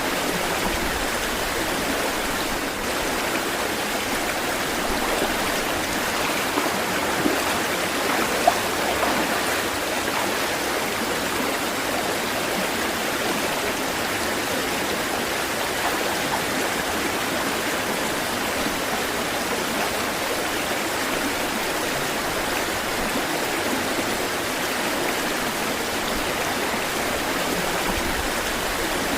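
Running water rushing steadily, as from a stream or small cascade, with a couple of brief sharper sounds about seven to eight seconds in.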